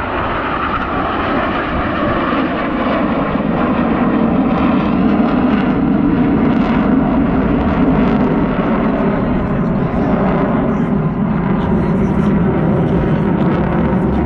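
Jet noise from US Navy Blue Angels F/A-18 Super Hornets flying past, a steady rushing sound that builds over the first few seconds and then holds loud.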